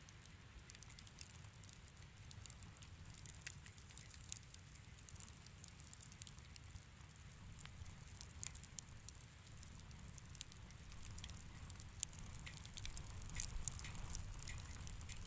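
Wood fire in a fireplace crackling: a stream of small, irregular pops over a low, steady rumble, with one sharper pop about twelve seconds in.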